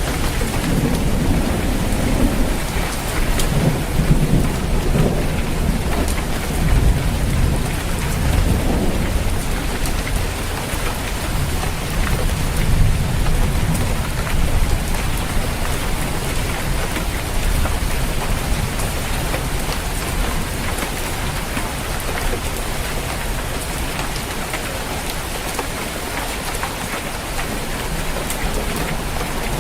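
Rain falling on a roof, a steady hiss, under low rolling thunder that is strongest in the first half and dies away.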